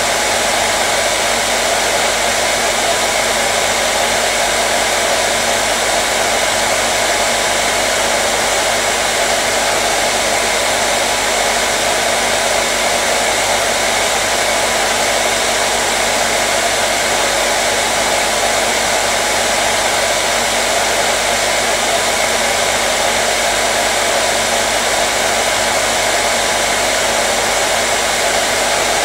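Hair dryer running continuously, a steady loud whoosh of fan and airflow with a faint motor hum, unchanging throughout.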